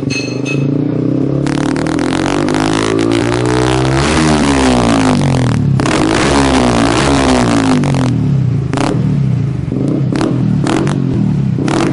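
Yamaha R15's single-cylinder four-stroke engine revved through a full-system carbon exhaust. The revs climb and fall in two long sweeps, then come several short throttle blips near the end.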